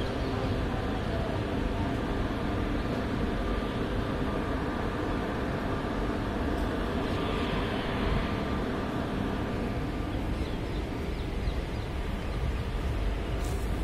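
Steady running noise of a moving train, heard from the open doorway of one of its coaches.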